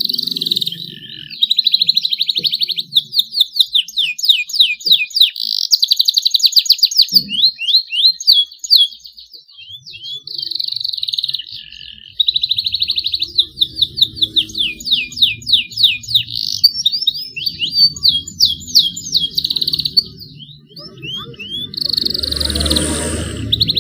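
Juvenile canary singing a continuous song of fast trills and quick sweeping chirps, some held as long rolls: a young bird still learning its song and beginning to roll. Near the end a louder, rougher sound with low tones comes in over it.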